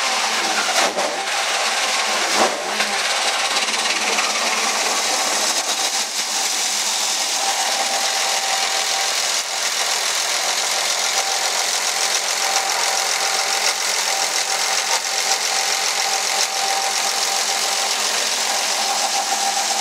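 Toyota 1JZ inline-six engine idling steadily, with a steady whine and a fast, even ticking over the top.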